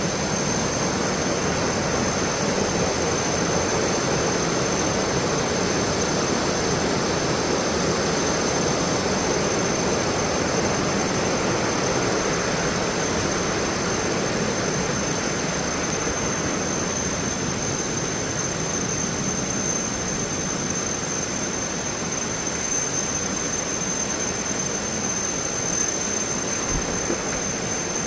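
Steady roar of a large waterfall, Thomson's Falls plunging 74 metres, an even rushing of water that holds through without a break.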